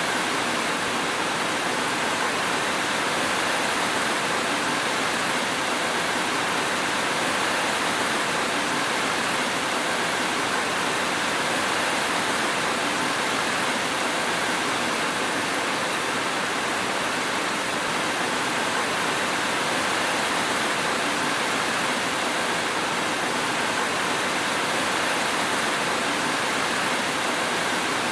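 Steady rainfall: a dense, even hiss that neither swells nor breaks, with no thunder.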